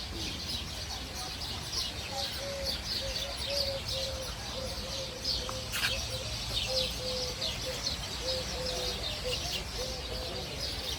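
A chorus of small birds chirping rapidly and continuously, over a repeated series of short, low, even notes.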